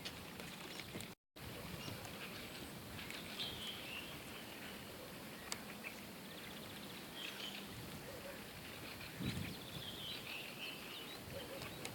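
Steady outdoor background noise with birds chirping now and then. The sound cuts out completely for a moment about a second in.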